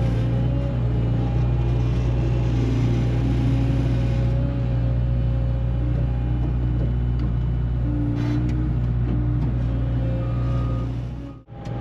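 Loader's engine running steadily under load, a deep even hum, cut off briefly near the end.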